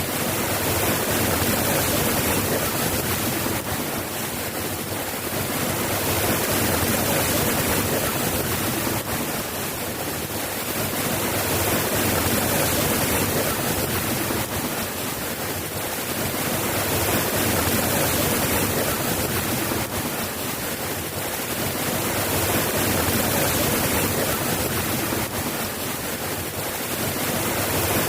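Steady rain falling, a dense even hiss that swells and eases gently every few seconds.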